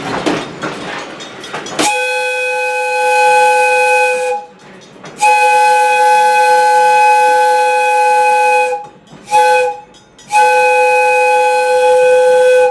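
Steam locomotive whistle sounding a chord in the grade-crossing pattern: two long blasts, one short and a last long one, beginning about two seconds in after a stretch of train running noise.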